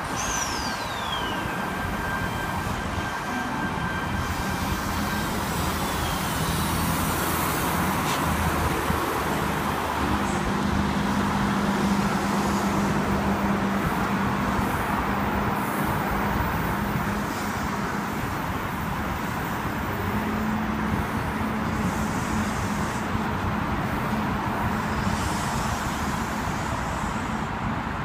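A V-set electric intercity train running through the station, a steady rumble with a low motor hum that sets in partway through and a brief falling squeal right at the start, over road traffic noise.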